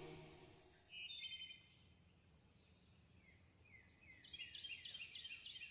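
Faint bird chirps: a short burst of calls about a second in, then a quick run of repeated falling chirps, about three a second, near the end. The tail of a song fades out at the very start.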